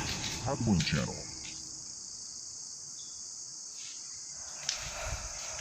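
Steady, high-pitched chorus of insects, such as crickets or cicadas, with a short mumbled sound about half a second in and faint low knocks near the end.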